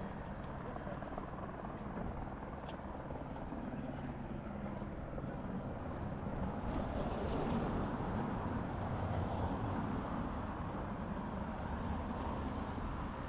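A motor vehicle's engine running close by over steady street noise, growing louder in the middle and then easing off.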